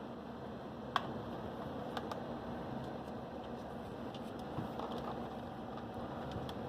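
Scattered light clicks and taps, one sharper about a second in, over a steady low room hum: pet birds' beaks and claws at play, with no calls.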